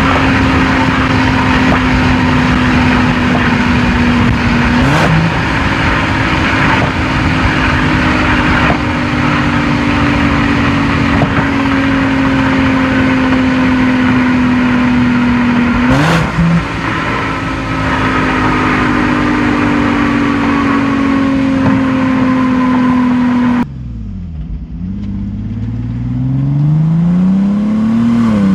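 Infiniti G37 V6 engine and exhaust while driving: the engine note slowly falls and then jumps up sharply twice, about five and sixteen seconds in, like downshifts while slowing. Near the end the sound drops away, dips low and then rises again.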